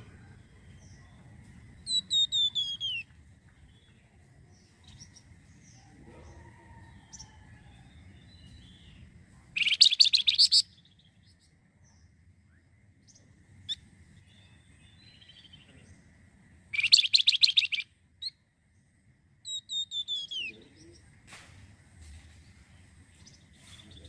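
Flamboyan songbird singing. It gives short runs of quick notes that fall in pitch, and twice a loud, rapid rattling phrase lasting about a second.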